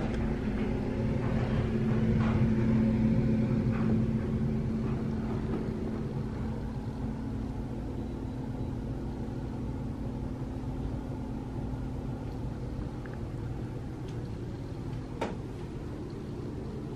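A steady low mechanical hum holding a few even tones, a little louder in the first few seconds, with one short click about fifteen seconds in.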